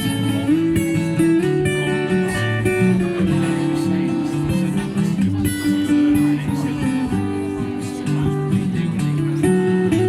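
Instrumental break in a country-style song played live: acoustic guitar strumming under a melody of held notes.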